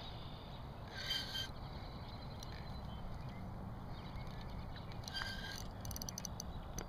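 Two short bird calls, one about a second in and one about five seconds in, over a steady low rumble, with a few faint clicks near the end.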